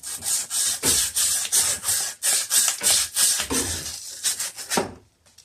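Copper pipe being scrubbed with an abrasive in quick back-and-forth strokes, about three a second, stopping near the end: cleaning the copper bright before it is fluxed and sweated.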